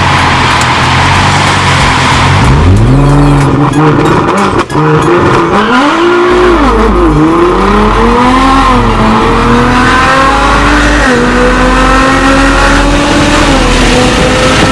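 Nissan GT-R R35 twin-turbo V6 heard through an Armytrix valved exhaust. It runs steadily at first, then revs up about two and a half seconds in. The pitch climbs and drops several times, with a brief break about four and a half seconds in and a long, steady climb near the end.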